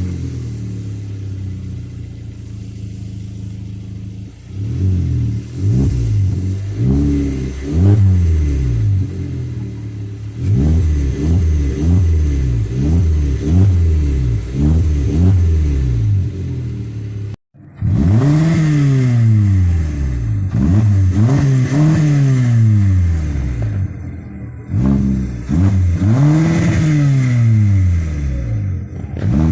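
Car engine with its muffler cut off, idling steadily for a few seconds and then revved again and again, each rev climbing and falling back. The revs get longer and higher after a brief cut-out about seventeen seconds in.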